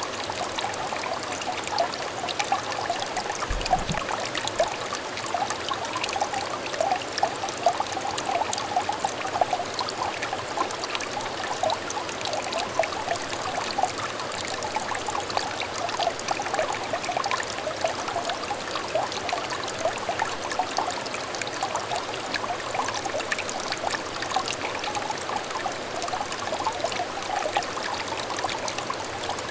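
A small clear stream trickling and babbling over stones: a steady, bubbly run of small splashes.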